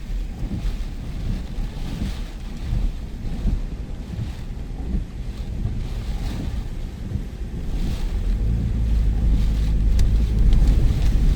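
Storm wind buffeting the microphone: an uneven low rumble that builds into a stronger gust near the end.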